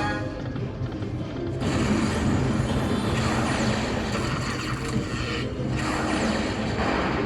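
Lightning Link slot machine playing its game music and sound effects, continuous and fairly loud, growing fuller and noisier about a second and a half in.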